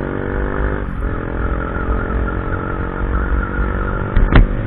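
Motorcycle engine running steadily while riding, with a short dip in engine sound about a second in like a gear change. Two sharp knocks near the end are the loudest sounds.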